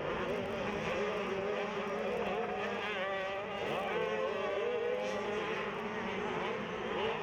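Several SuperMini motocross bikes' engines racing on the track, overlapping and rising and falling in pitch as the riders rev, shift and back off through the turns.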